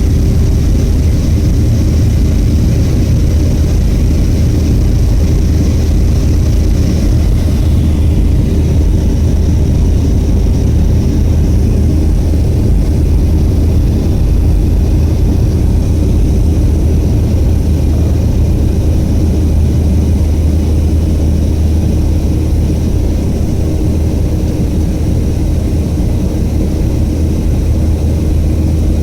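Boeing 737-500's CFM56 turbofan engines running steadily, a loud constant deep hum with a higher hiss that fades about seven seconds in.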